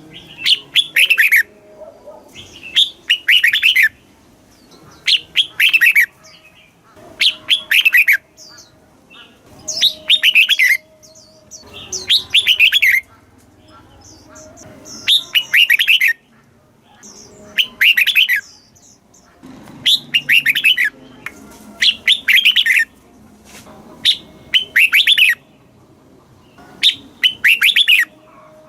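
Red-whiskered bulbul singing: short, loud, clear phrases of quick sweeping notes, each about a second long, repeated roughly every two seconds.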